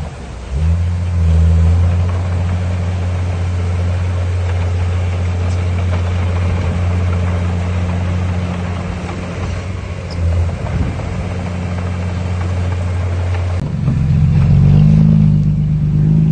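Heavy diesel engine of construction machinery running under steady load with a deep, even drone. Near the end the sound changes abruptly to an engine note that rises and wavers, as the engine revs.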